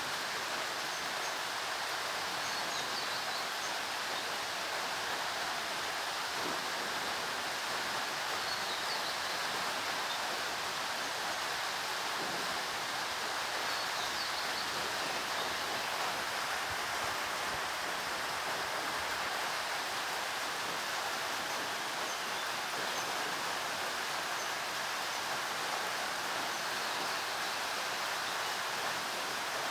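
Steady rain falling, an even hiss that holds the same level throughout, with a few faint high chirps now and then.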